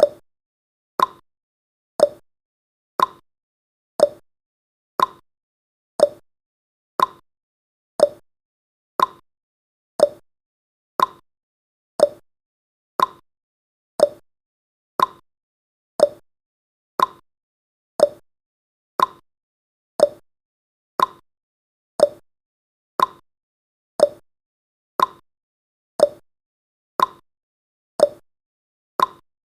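Countdown timer's ticking sound effect: short sharp ticks, one a second, evenly spaced.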